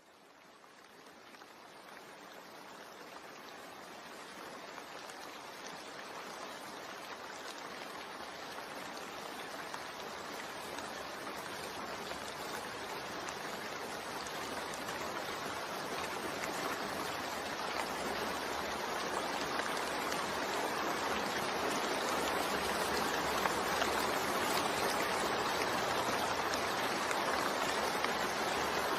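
Continuous rain sound mixed with white noise: an even hiss with no separate drops or rhythm, fading in slowly from near silence and growing steadily louder.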